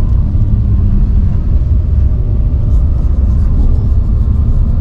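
Steady low rumble of road and engine noise inside a moving vehicle's cab at highway speed.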